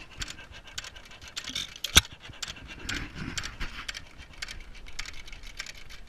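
Antique hit-and-miss gas engine coasting between firing strokes. It pants like a dog in a steady rhythm of breathy puffs and light clicks, because the exhaust valve is held open while it misses. There is one loud sharp crack about two seconds in.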